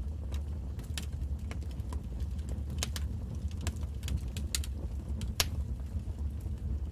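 Wood fire crackling in a fireplace: irregular sharp pops and snaps over a steady low rumble of the flames, with one louder pop about five and a half seconds in.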